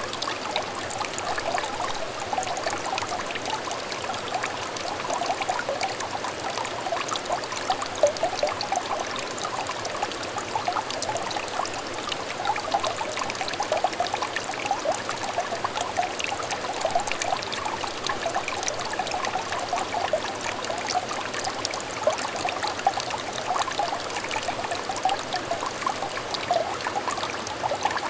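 Small clear stream trickling and burbling steadily, a dense patter of little bubbling plops over a soft rush of flowing water.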